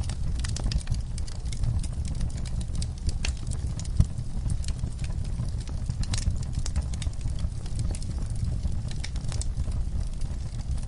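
Wood fire in a fireplace crackling and popping over a steady low rumble of burning flames, with one louder pop about four seconds in.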